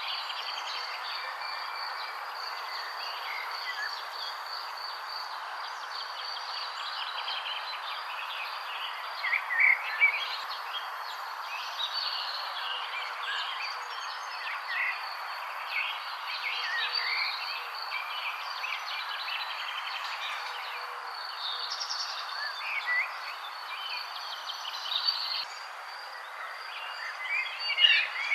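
Songbirds chirping in short, scattered calls over a steady background hiss, with a continuous high-pitched insect trill underneath.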